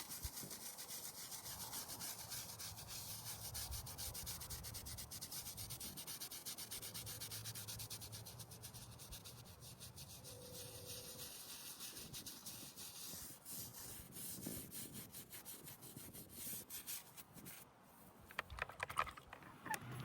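Rhythmic scrubbing: a brush or pad rubbing back and forth over a stone surface in quick, even strokes, thinning out over the last few seconds.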